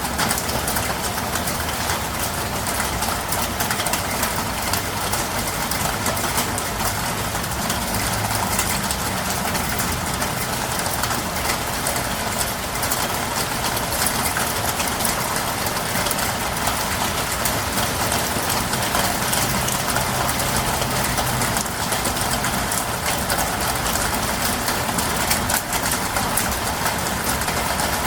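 Heavy rain pouring steadily, a dense even hiss of countless drops striking hard surfaces, with a low rumble underneath.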